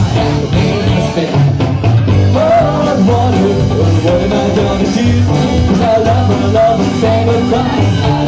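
Live rock-and-roll blues band playing an instrumental break: bass and a steady beat, with a lead line bending its notes over them.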